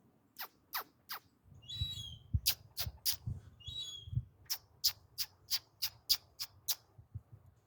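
Seagull giving short squeaky calls, among a run of sharp clicks that come about three a second in the second half.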